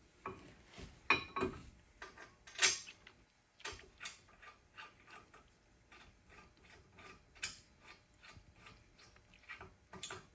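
Hand ratchet wrench clicking in short runs as brake caliper bolts are run in, with a few sharper metal clanks among the clicks.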